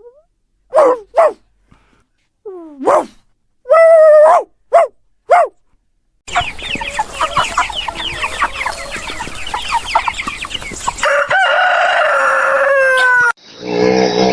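Chickens clucking and squawking in short separate calls, then a flock's dense, busy clucking from about six seconds in, with a rooster crowing once near the end. The sound cuts off abruptly in the last second and a different, lower-pitched animal sound follows.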